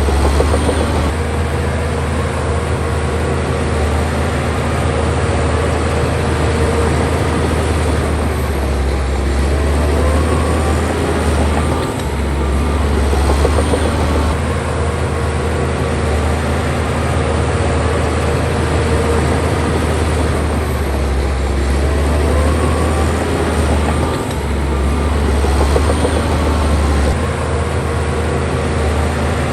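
Bulldozer's diesel engine running hard and steadily, with occasional squeals from the tracks. The engine note dips briefly about twelve seconds in and again near twenty-four seconds.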